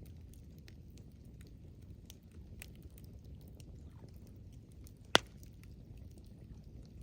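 Campfire crackling: faint scattered ticks of burning wood and one loud, sharp pop about five seconds in, over a low steady rumble.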